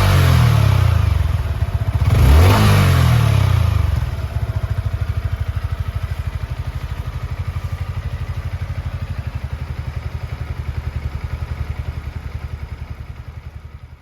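Yamaha MT-125's single-cylinder four-stroke engine being blipped: the revs drop back just after the start, rise and fall once more about two and a half seconds in, then settle to a steady idle that fades out near the end.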